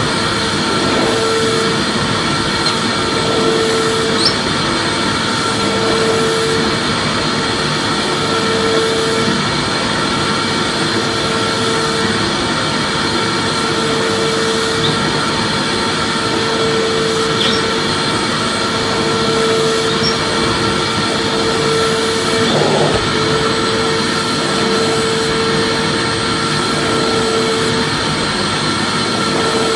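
Vacuum cleaner running steadily as continuous white noise for soothing a baby: an even hiss with a constant whine, and a lower hum that swells and fades every second or two.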